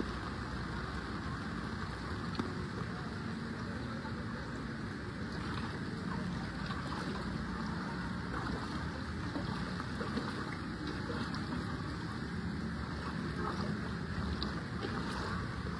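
Steady rushing noise of moving floodwater, mixed with wind buffeting the microphone.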